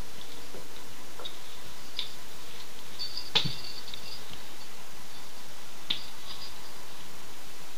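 A few scattered light clicks and taps over a steady hiss, the sharpest about three and a half seconds in and another near six seconds.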